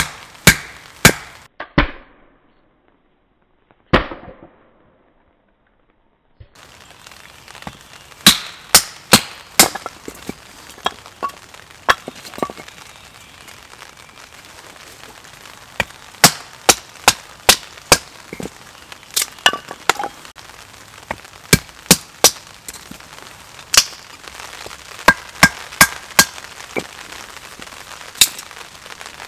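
Splitting firewood by batoning a Casström Lars Fält knife: a wooden baton knocks on the blade's spine, sharp knocks in quick runs of several. There is a near-silent break of about four seconds a couple of seconds in, with a single knock in the middle of it.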